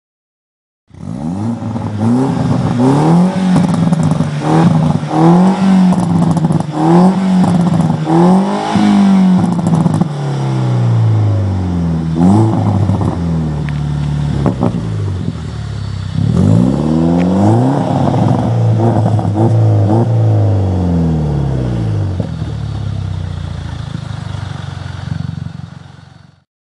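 Mini Cooper S R56's turbocharged four-cylinder engine through an aftermarket stainless complete exhaust system, revved in repeated quick throttle blips that rise and fall, then running steadily at a lower pitch near the end before it cuts off.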